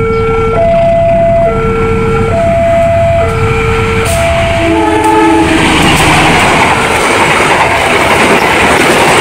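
Railway level-crossing warning alarm sounding two alternating notes, high then low, about once every 0.7 s, cut short by a brief train horn blast about 5 s in. Then a train passes close by with loud wheel and rail noise.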